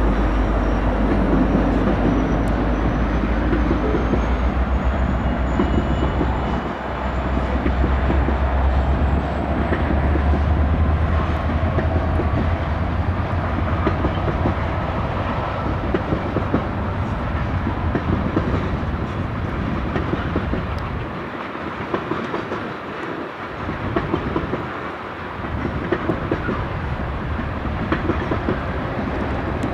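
A Union Pacific EMD SD70ACe diesel-electric locomotive, running as a mid-train distributed-power unit, rolls past with a deep engine rumble that fades over the first half. Then a string of loaded tank cars rolls by with a steady clatter of wheels over the rail joints.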